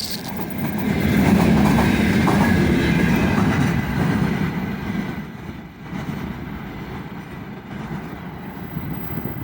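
Freight train wagons rolling past with the clickety-clack of wheels over rail joints, loudest in the first few seconds and then easing off.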